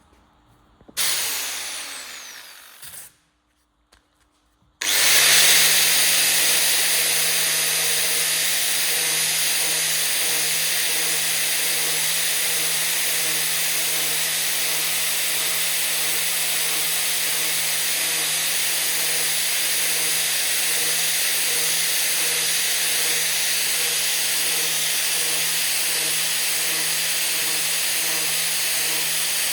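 An electric power tool runs briefly about a second in and winds down with falling pitch. About five seconds in it starts again and runs steadily at constant speed.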